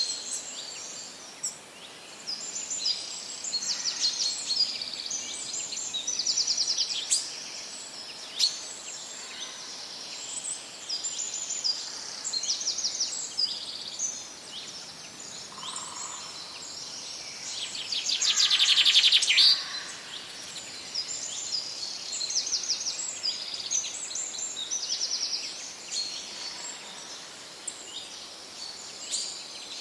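Wild songbirds singing: a dense run of short, high chirping and trilled phrases, repeated about once a second, with a louder, longer trill about two-thirds of the way through.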